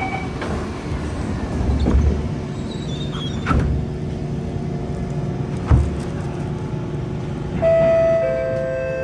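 Kawasaki C151 MRT train heard from inside a car as it runs: a steady rumble with three sharp knocks spread through it. About seven and a half seconds in, a steady hum of several pitched tones comes in and slowly fades.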